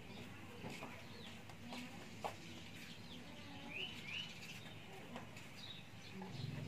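Faint bird chirps, including a pair of short rising calls near the middle, with a soft click or two.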